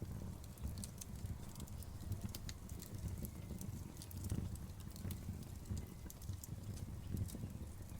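Wood fire burning: a steady low rumble of flames with frequent sharp crackles and pops at irregular intervals.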